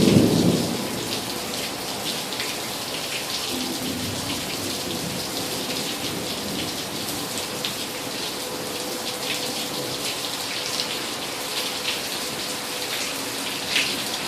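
Steady rain falling, with many drops ticking on a hard surface. A rumble of thunder dies away in the first second.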